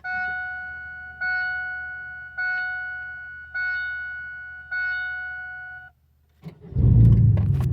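Pontiac Grand Prix GTP's dashboard warning chime dings five times, about once a second, then stops. After a brief pause, the supercharged 3.8-litre V6 cranks and fires up about seven seconds in. It runs loud and low through a straight-piped exhaust with no mufflers, resonator or catalytic converter.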